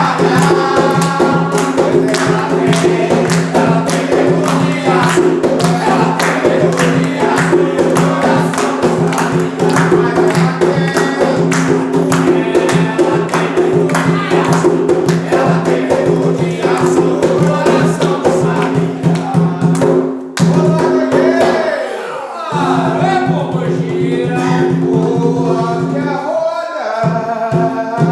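A group sings an Umbanda ponto (ritual chant) over steady percussion beats and a held backing chord. The backing drops out briefly about two-thirds of the way through.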